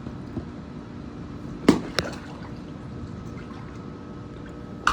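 Pool water trickling and lapping, with sharp smacks on the water: two loud ones about a second and three-quarters and two seconds in, and a weaker one near the end, over a faint steady hum.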